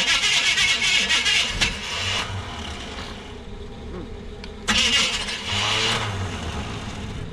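Starter motor cranking an engine in two bursts: the first about two seconds long, the second about a second and a half, a few seconds later. The engine is being primed with gas poured straight into the carburetor because its tank is empty.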